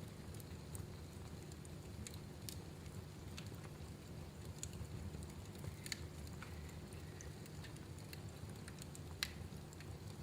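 Wood fire burning in a fireplace: scattered crackles and pops over a steady low rumble, with sharper pops about six and nine seconds in.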